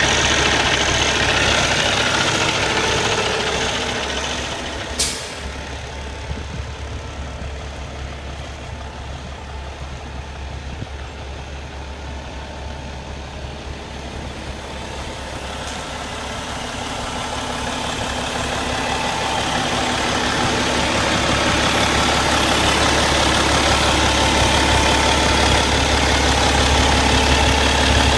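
Cummins ISX inline-six diesel of a 2011 Peterbilt 389 highway tractor idling steadily; the sound fades down for several seconds in the middle and then comes back up. A single sharp click about five seconds in.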